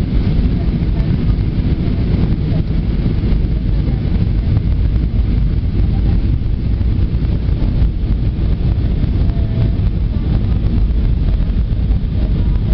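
Steady cabin noise of an Airbus A320 in flight: a loud, even rumble of the jet engines and airflow heard from inside the passenger cabin.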